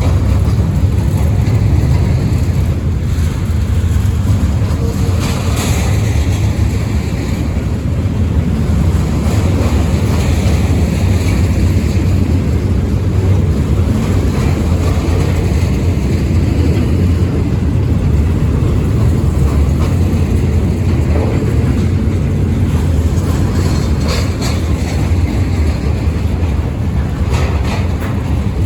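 Freight train rolling past in a steady low rumble, with scattered sharp clicks and squeals from the wheels on the rails.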